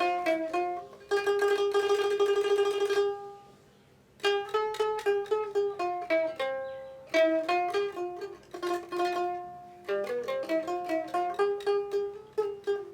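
Solo dotara, a plucked folk lute, playing a melody. It holds one note in a rapid tremolo from about one second in to three seconds in, then pauses briefly before the melody resumes.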